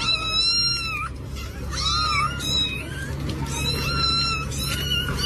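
A cat meowing repeatedly in several drawn-out, high-pitched calls, over a steady low hum.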